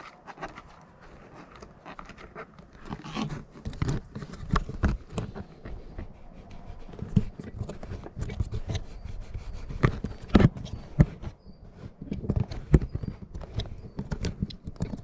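Irregular clicks, knocks and rubbing of things being handled close to the microphone, with several sharper clicks about ten seconds in.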